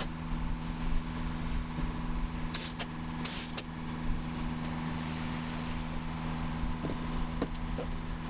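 A sailboat's inboard engine running steadily under way: a constant hum over a low rumble. A few light clicks fall about three seconds in.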